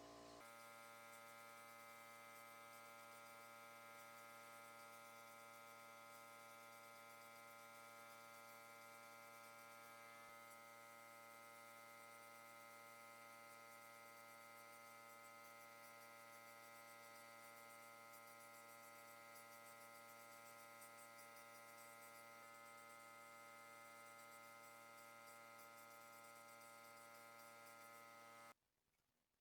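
Faint steady hum made of many held pitches, unchanging for nearly half a minute, cutting off suddenly near the end.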